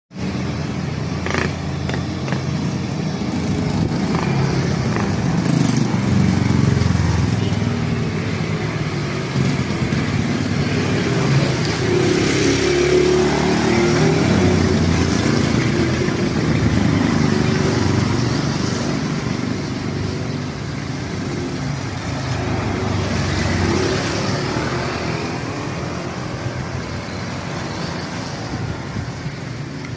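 Steady rumbling road and wind noise from riding a mountain bike, with a few sharp clicks or knocks in the first few seconds.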